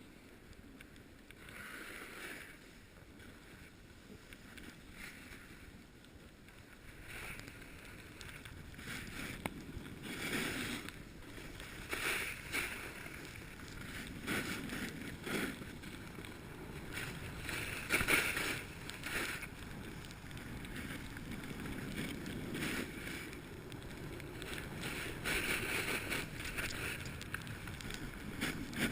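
Snowboard sliding and carving over packed snow: a steady scraping hiss, mixed with wind rushing past the microphone. It swells every few seconds as the board's edge bites in a turn and grows louder after the first several seconds as speed builds.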